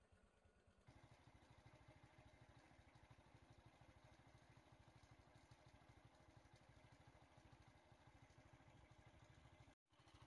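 Faint vehicle engine idling: a steady, fast low pulsing that gets slightly louder about a second in and drops out for a moment near the end.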